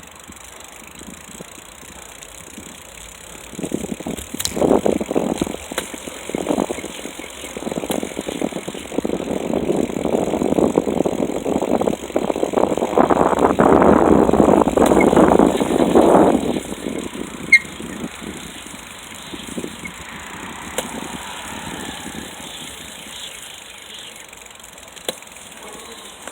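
Bicycle riding noise: a loud rattling rumble, likely the bike and its mounted camera jolting over a rough path, that swells about four seconds in and drops away about sixteen seconds in. Quieter rolling noise fills the rest.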